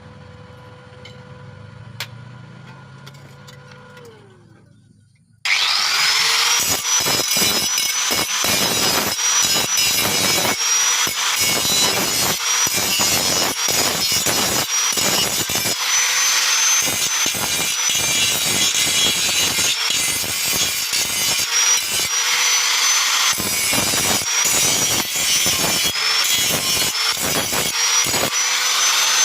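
Angle grinder winding down, then starting up again about five seconds in and grinding steadily on metal, with a high whine over the grinding noise.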